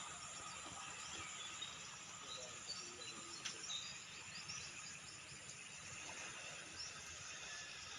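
Countryside ambience at sunrise: a steady insect hiss with scattered short bird chirps and one brief click.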